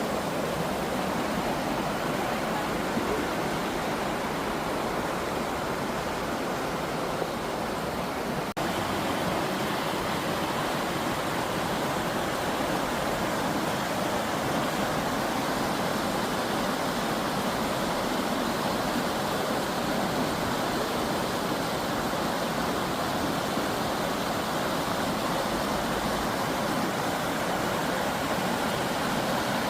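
Steady rushing of a mountain river's water, with a brief break about eight and a half seconds in.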